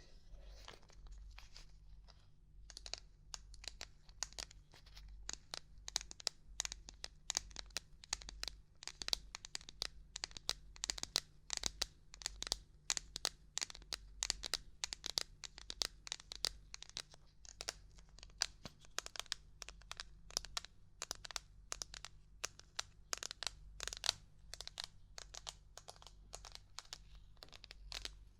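Crisp, irregular tapping and knocking on hard objects, a quick run of sharp clicks several a second, getting louder and denser about two and a half seconds in.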